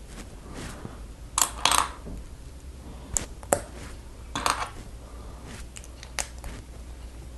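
Plastic Lego pieces clicking and clattering as they are handled and pressed together: scattered sharp clicks with short rattles, the loudest about one and a half seconds in and again about four and a half seconds in.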